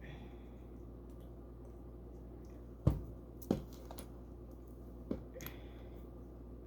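Plastic LEGO pieces clicking and knocking as they are handled. There are two sharp clicks about three seconds in, half a second apart, and a lighter one near five seconds. Under them runs the steady low hum of a pump.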